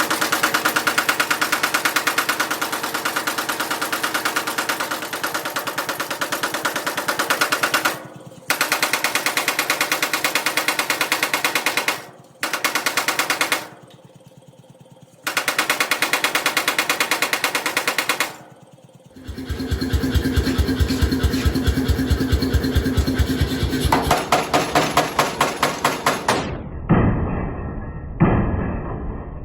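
Forging hammer pounding steel in rapid, evenly spaced blows, in runs of several seconds broken by short pauses. Near the end come two slower single blows, about a second and a half apart.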